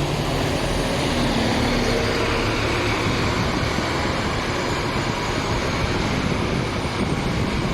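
Scania K230UB single-deck city bus running, a steady mix of engine and road noise with a faint whine that rises slightly about two seconds in.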